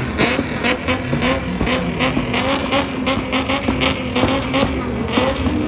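Car engine running, its note wavering and rising, with a quick regular series of sharp ticks throughout.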